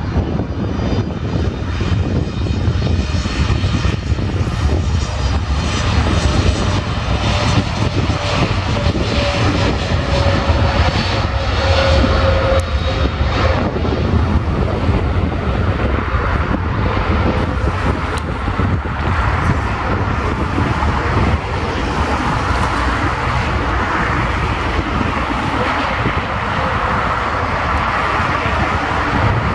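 Boeing 787 Dreamliner's jet engines at takeoff power: a loud, steady rumble with a whine that slowly falls in pitch midway through.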